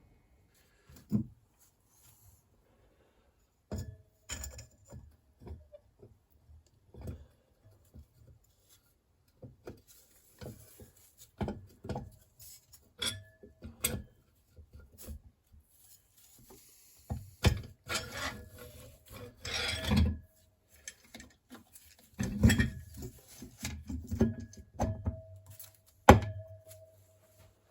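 Irregular knocks, clinks and short scraping sounds of bolts and hand tools being handled on a stripped motorcycle engine case, with a longer stretch of rubbing a little past the middle.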